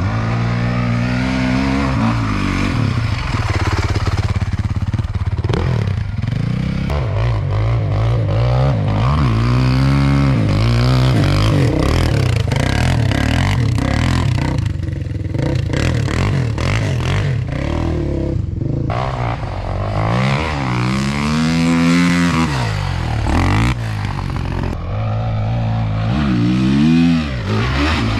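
Off-road vehicle engine being ridden hard, its pitch rising and falling repeatedly as the throttle is opened and closed.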